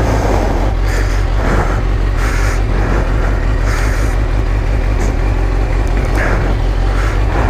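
Suzuki GSX-R1000 sport bike's inline-four engine running steadily on the move, with wind noise over it.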